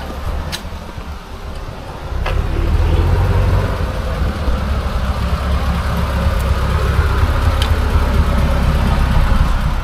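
1938 Ford truck's flathead V8 running with a steady low rumble, getting louder about two seconds in.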